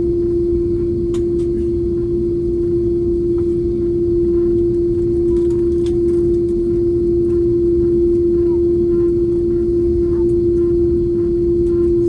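Airliner cabin noise: a steady low engine and airflow rumble carrying a constant droning hum tone.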